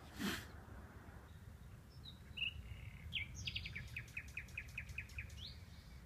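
A songbird singing faintly: a few separate whistled notes, then a fast run of about ten repeated down-slurred notes ending in one rising note, over a steady low rumble. A brief rustle just after the start.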